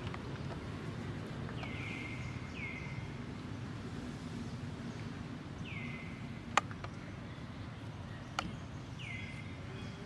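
An animal's short high calls, four of them, each sliding down in pitch and then holding briefly, over a steady low rumble. Two sharp clicks come later on.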